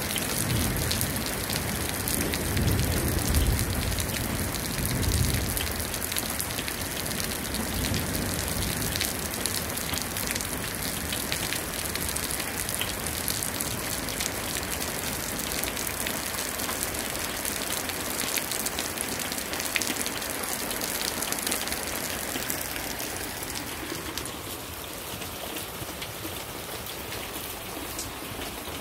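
Heavy rain falling steadily, a dense hiss of drops, with low rumbles about two to five seconds in and again around eight seconds. The rain grows a little quieter near the end.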